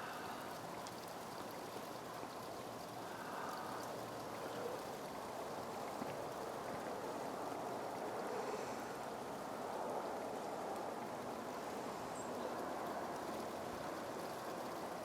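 Steady hiss of heavy wet snowfall coming down outdoors, with a few faint ticks of flakes or drips landing.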